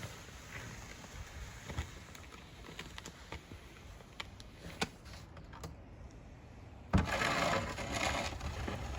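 John Deere X758 garden tractor running low, with light clicks and rattles over it. About seven seconds in there is a sudden thump, then a rush of noise for a second or two.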